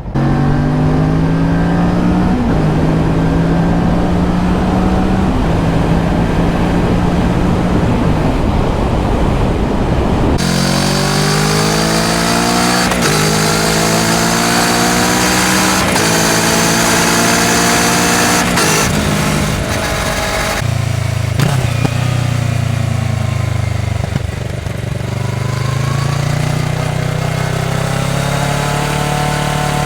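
2020 Kawasaki Ninja 650's parallel-twin engine through a full Akrapovič exhaust, riding and accelerating through the gears: the pitch climbs and drops at each upshift, then winds down as the bike slows. About ten seconds in the sound turns suddenly brighter and fuller.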